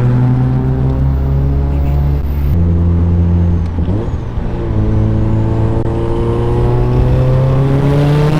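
Car engine pulling under acceleration: its pitch drops sharply about two and a half seconds in, dips again around four seconds, then climbs slowly and steadily.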